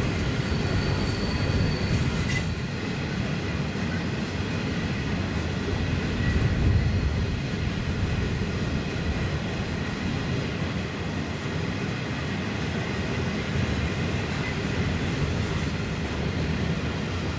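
A train running past with a steady rumble of wagons on the rails.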